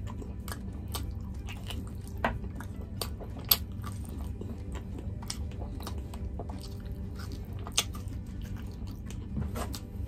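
Close-miked mouth sounds of a person eating rice and chicken curry by hand: chewing and lip-smacking with scattered sharp, wet clicks, the loudest about three and a half seconds in.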